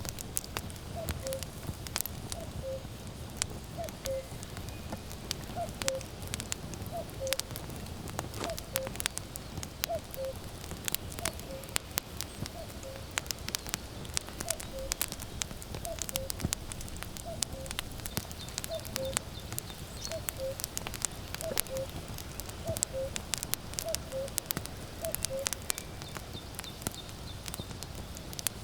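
Wood fire crackling and popping, with a common cuckoo calling its falling two-note "cu-ckoo" over and over, roughly once every second and a half, stopping shortly before the end.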